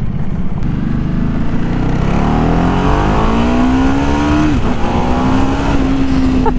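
Ducati Multistrada 1200 S's 1198 cc L-twin engine accelerating under load, running with its seized exhaust valve removed so the exhaust flows freely. The engine note rises, drops suddenly at a gear change about four and a half seconds in, then pulls steadily.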